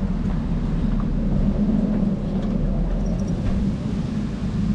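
Steady low rumble throughout, with a few faint light ticks.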